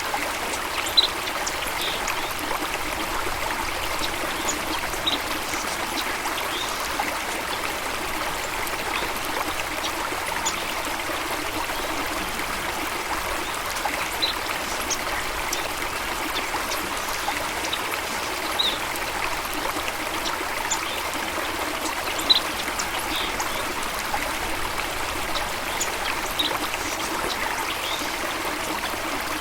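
Steady running water, with short, high bird chirps scattered every few seconds over it.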